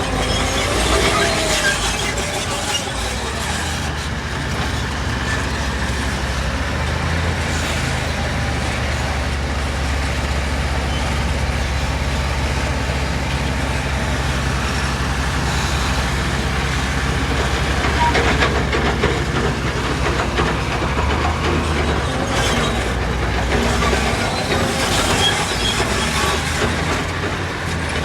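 Diesel engine of tracked heavy construction equipment running steadily under load, with the clanking clatter of steel crawler tracks over it.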